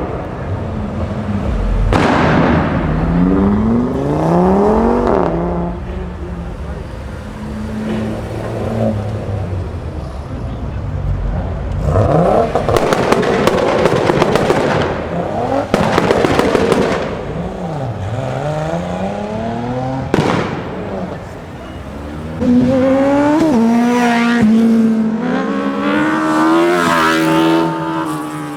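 Tuned performance cars revving and accelerating away one after another, engine pitch sweeping up through the gears, with a run of sharp exhaust pops and crackles about halfway through.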